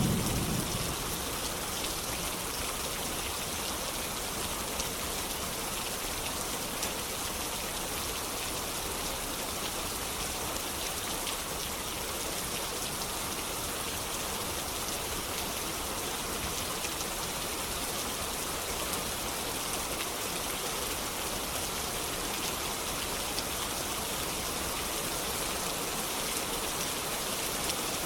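Steady rain falling, an even hiss with scattered drop ticks. A brief low thump sounds right at the start.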